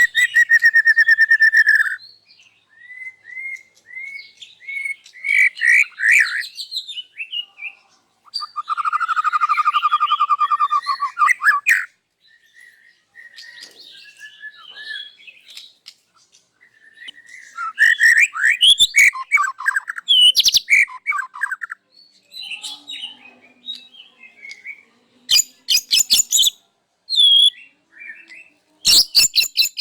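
White-rumped shama (murai batu) singing loudly in separate phrases with short pauses between them. The phrases mix whistles, trills and sharp rattling notes, including the mimicked songs of other birds that make up its repertoire. A long rapid trill comes about a third of the way in.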